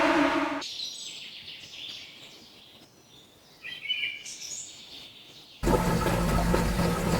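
A loud pitched sound with a steady tone cuts off about half a second in, leaving a quiet background with a few faint bird chirps, the clearest about four seconds in. Near the end a loud, steady noisy sound with a low hum cuts in suddenly.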